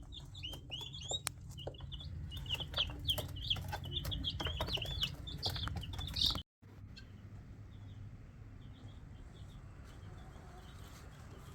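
A brood of young chicks and turkey poults peeping: many short, high peeps in quick succession, mixed with scattered light clicks. The sound cuts out briefly about six and a half seconds in, and the peeping goes on more faintly after it.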